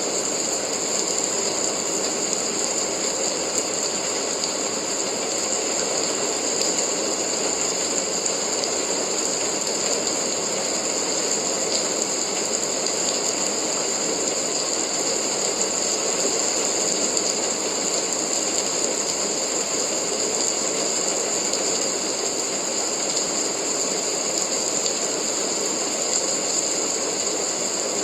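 Steady rain: a continuous, even hiss with no breaks or changes.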